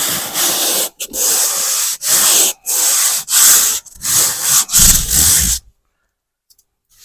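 Sanding dried joint compound on a drywall patch by hand: a run of about seven quick, scratchy strokes of the sander, each under a second long, that stop near the end.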